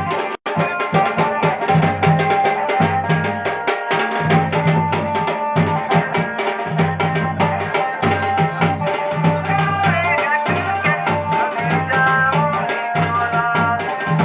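Garhwali wedding band music: drums beating a steady, busy rhythm under a sustained melody line, with a brief cut-out in the sound about half a second in.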